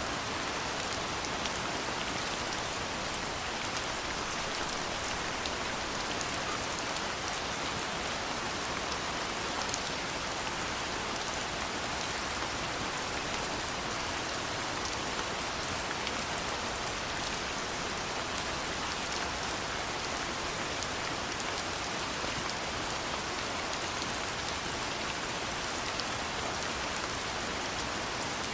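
Steady soft rain falling, with many small drops ticking in a constant patter.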